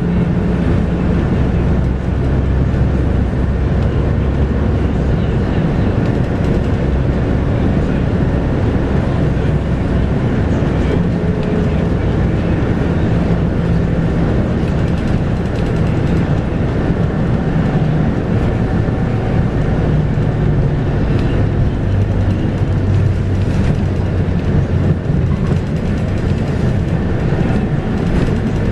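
Scania DC9 5-cylinder diesel engine of a Scania K230UB bus running on the move, heard from inside the bus, driving through a 6-speed ZF Ecomat automatic gearbox. The engine note steps up and down several times as the bus changes speed.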